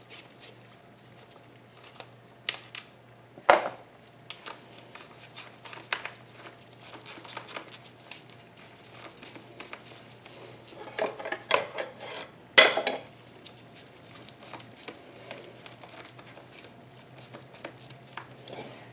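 Metal tools and engine parts clinking and clanking as someone works under the hood, with scattered light clicks and two louder clanks, one about three and a half seconds in and one about twelve and a half seconds in, over a faint steady low hum.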